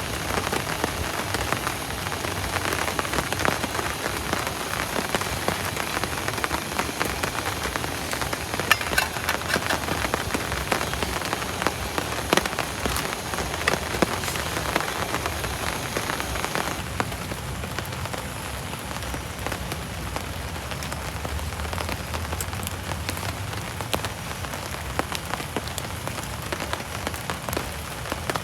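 Heavy tropical rain falling steadily, a dense hiss full of drop taps. It eases noticeably about two-thirds of the way through.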